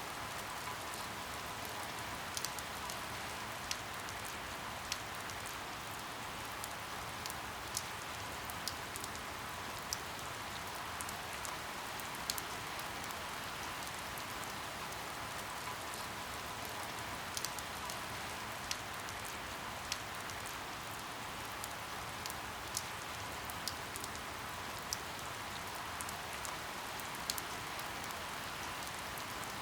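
Steady rain falling, with scattered sharp drop taps on a hard surface every second or so.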